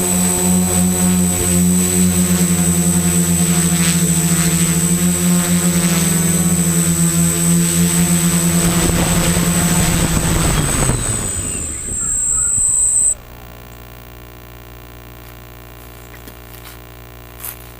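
Quadcopter motors and propellers running with a steady buzzing hum and a high whine, then falling in pitch about ten seconds in as the motors spin down. The sound stops abruptly a couple of seconds later, leaving a low background with a few faint clicks near the end.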